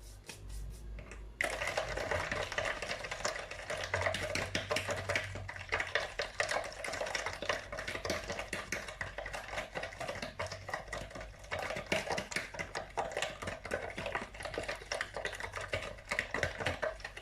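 Egg, sugar and salt being whisked in a mixing bowl: fast, continuous clicking and scraping of the whisk against the bowl, starting about a second and a half in.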